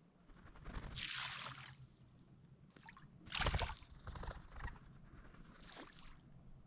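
Water splashing and sloshing in a few irregular bursts, the loudest about three and a half seconds in.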